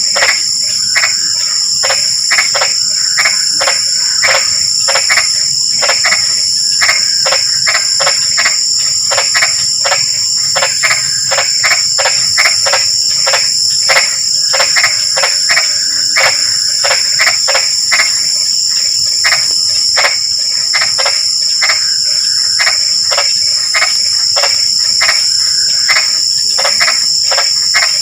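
A chorus of frogs calling after rain: a continuous run of short croaks, about three a second, over a steady high trill of crickets.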